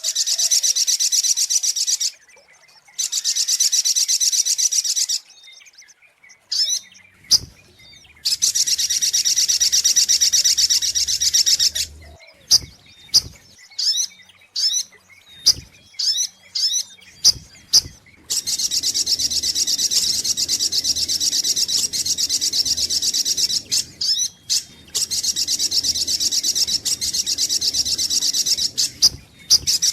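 Sogok ontong (little spiderhunter) calling. Long, fast, high trills of a few seconds each alternate with runs of short, sharp separate chirps.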